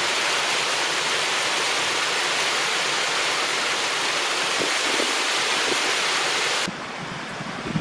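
Steady hiss of heavy rain falling. About seven seconds in, the hiss drops abruptly to a quieter level, and a few low thumps follow near the end.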